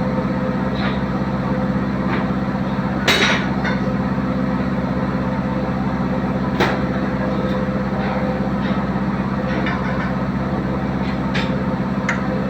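Diesel engine running steadily at idle, with two sharp metallic clanks, about three seconds in and again about six and a half seconds in.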